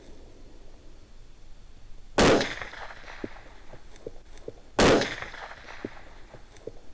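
Two suppressed rifle shots about two and a half seconds apart, each trailing off in a short echo, fired at hogs.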